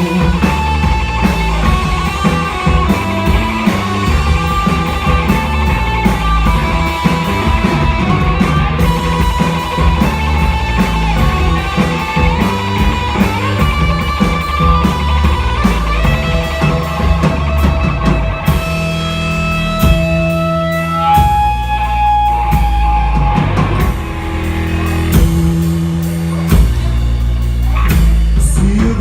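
Rock band playing an instrumental passage: a guitar melody with long held notes over bass and drum kit.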